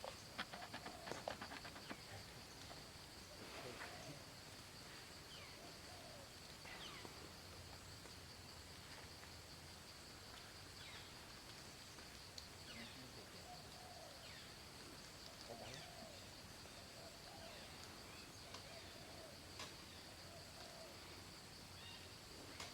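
Faint outdoor ambience: a steady high-pitched insect drone, with occasional short chirps from birds every few seconds. A few soft clicks come in the first couple of seconds.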